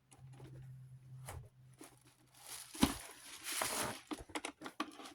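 Handling noise of a desk fan's oscillation mechanism being worked on by hand: scattered small clicks and knocks, with a stretch of crinkling rustle in the middle and one sharper knock. A low hum sounds during the first second and a half.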